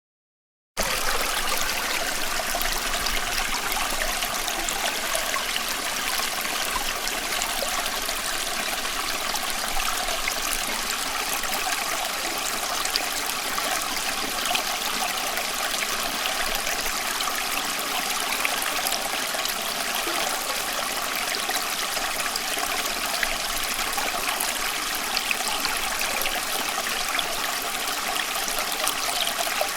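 Small stream flowing steadily, water babbling and trickling over stones, starting suddenly less than a second in.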